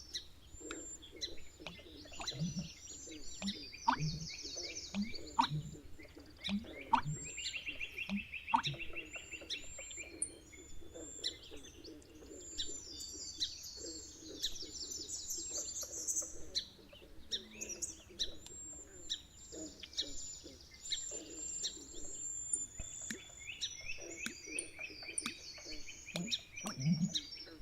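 Marsh field recording of several birds chirping and trilling high over a steady bed of lower croaking notes, with short low calls now and then.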